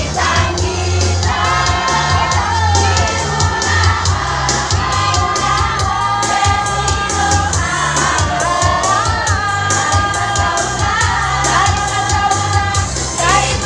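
Choir singing held, sustained notes over accompaniment with a steady beat and a pulsing bass line.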